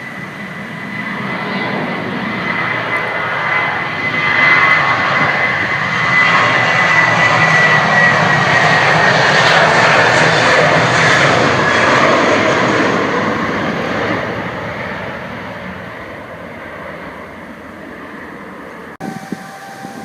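Boeing 737-800's twin CFM56 turbofan engines at takeoff power as the jet passes and departs: a jet roar with a fan whine that slowly drops in pitch, swelling to a peak and then fading.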